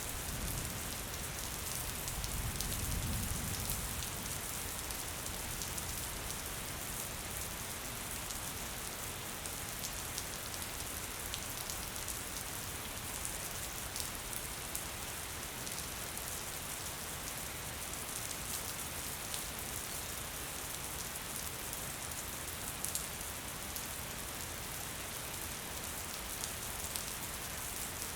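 Gentle rain falling steadily, an even hiss with scattered sharp drop ticks. A faint low rumble sits under it for the first few seconds.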